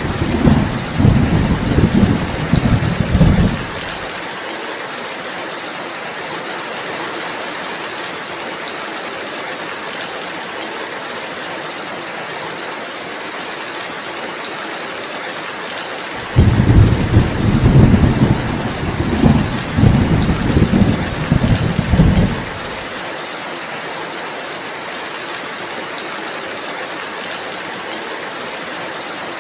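Steady rainfall with two rolls of low thunder. One rumble fades out about three and a half seconds in; the other starts suddenly about sixteen seconds in and rumbles for about six seconds.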